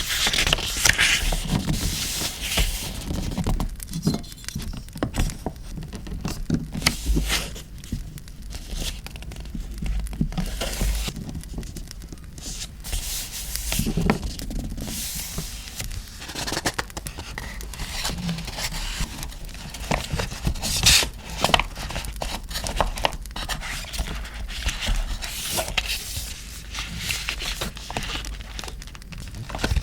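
Paper and art postcards being handled for diary decorating: irregular rustling, rubbing and scraping of paper with occasional tearing.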